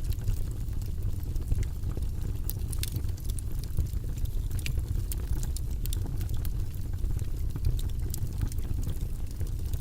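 Wood fire in a fireplace crackling, with many small sharp pops over a steady low rumble of the flames.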